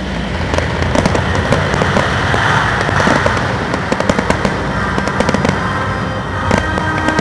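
Fireworks going off: a rapid string of sharp cracks and bangs over a dense, continuous crackling rumble that swells in the middle.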